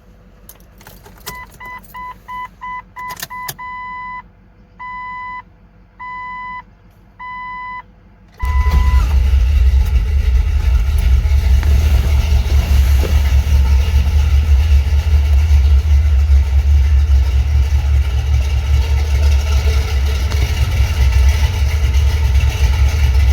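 Jeep Cherokee XJ's 4.0 straight-six exhaust: a few clicks and a series of dash chime beeps, fast at first and then slower, before the engine starts about eight seconds in and settles into a steady, loud, deep idle.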